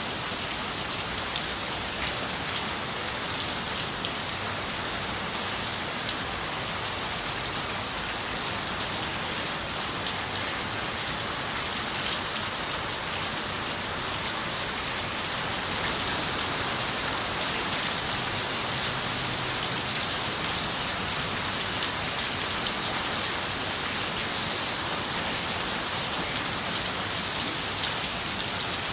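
Steady rain falling, with scattered small drop ticks; it grows a little heavier about halfway through.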